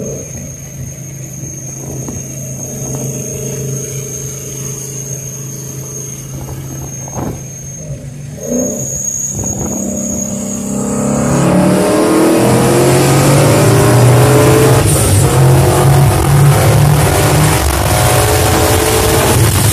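Ford Mustang V8 heard from inside the cabin, cruising steadily, then going to wide-open throttle about eleven seconds in for a test hit. It gets much louder and its pitch climbs as it accelerates hard, with a brief dip about a second after the throttle opens.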